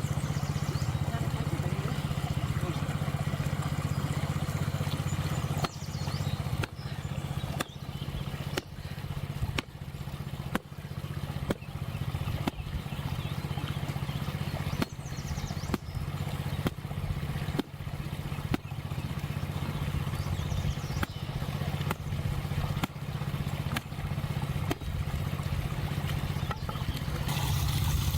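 A small engine running steadily with a low hum. About six seconds in, regular sharp knocks start, roughly one a second, and keep on until near the end, when a hiss comes up.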